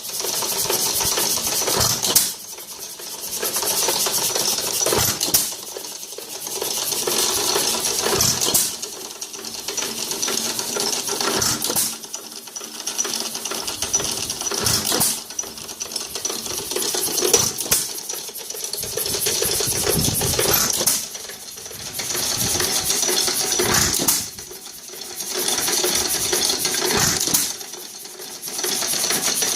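Big Chief 2.5 hp engine running with a rapid mechanical clatter. A sharp bang comes about every three seconds, followed by a louder stretch of clatter that dies away before the next bang.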